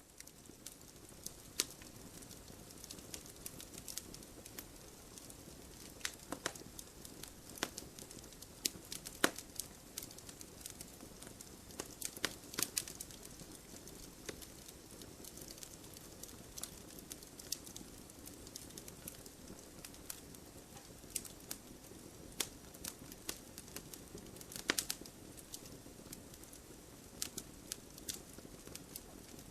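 Wood fire crackling in a wood-burning stove: irregular sharp snaps and pops over a soft steady hiss, a few louder pops standing out.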